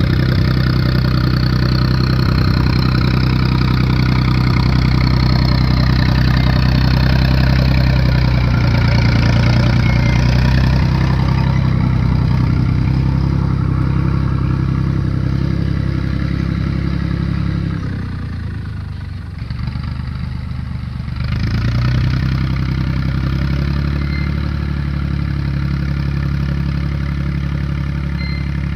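Tractor engine running steadily while pulling a field roller. About eighteen seconds in, the engine note drops and quietens for a few seconds, then picks up again.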